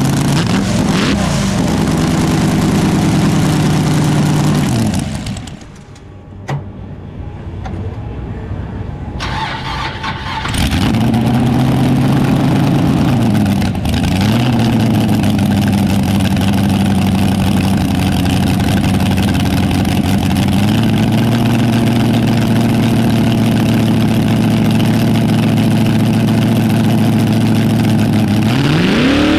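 Drag race car engine idling with short throttle blips. About five seconds in it drops away to a much quieter sound, then comes back strongly about ten seconds in and runs on steadily. It revs up sharply near the end.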